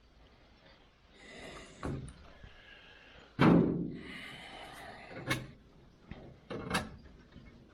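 A single heavy thump about three and a half seconds in, with lighter knocks and clicks before and after it, as parts are handled and set down.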